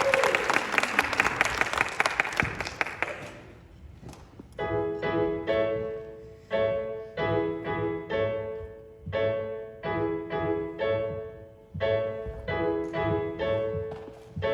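Audience applause fading out over the first few seconds, then a piano playing a steady pattern of repeated chords as a song's introduction.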